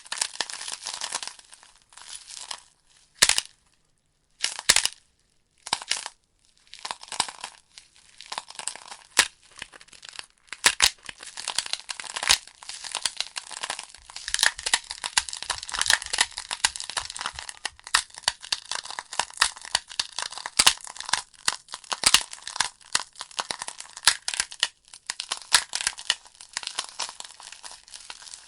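Wood fire crackling in a fireplace: logs burning with dense, irregular snaps and pops. A few seconds in, the crackle drops out twice briefly before it resumes and runs thick.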